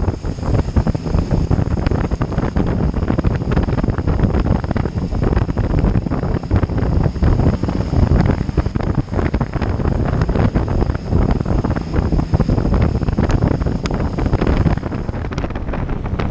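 Wind rushing and buffeting over the microphone of a moving motorcycle, a loud steady rumble of wind and road noise.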